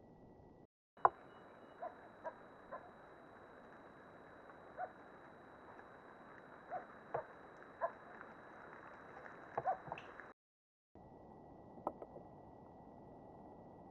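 A bird giving short, sharp calls at uneven intervals, about a dozen over nine seconds, over steady hiss and a thin high electronic whine from the trail camera. The sound drops out briefly near the start and again about ten seconds in, as the clips change.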